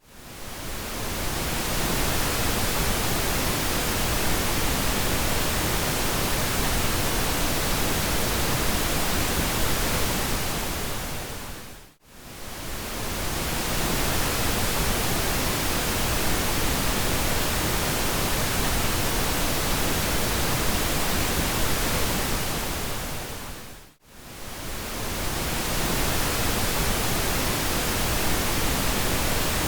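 Steady pink noise, a smooth even hiss with a full low end, fading briefly to near silence and swelling back about every twelve seconds: at the very start, about twelve seconds in and about twenty-four seconds in.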